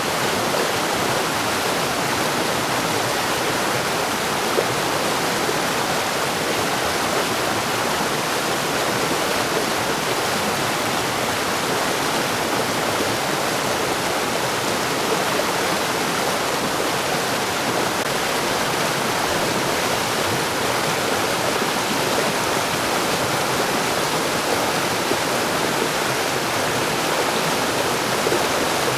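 Mountain stream rushing and splashing over rocks, a steady unbroken water noise.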